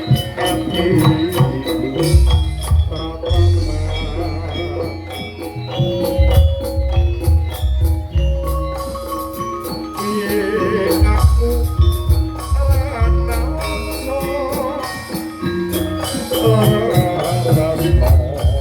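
Jaranan ensemble playing an instrumental passage: gamelan-style mallet instruments, drums and jingling percussion over a heavy bass.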